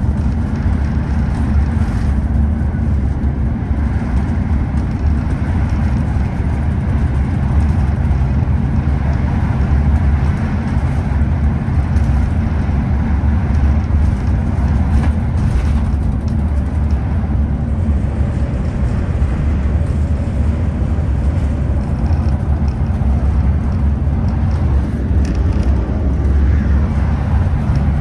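Scania OmniExpress express coach's diesel engine running steadily under way, a low drone with road and tyre noise.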